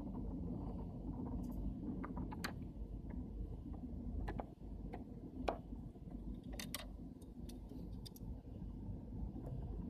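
Small sharp clicks and taps at irregular intervals as the small parts of a disassembled camera lens are handled and fitted, over a steady low hum.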